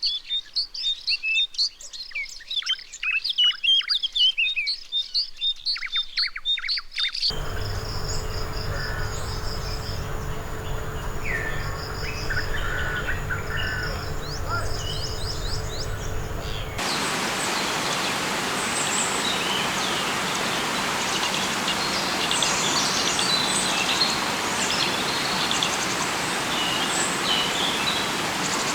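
Rainforest ambience in three stretches: first a dense chorus of rapid bird chirps, then about 7 s in a steadier bed of evenly pulsing high insect-like tones over a low hum with occasional bird calls, and from about 17 s in a steady hiss with birds chirping over it.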